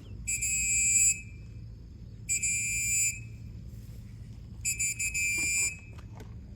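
Three high, steady-pitched whistles, each just under a second long and about two seconds apart.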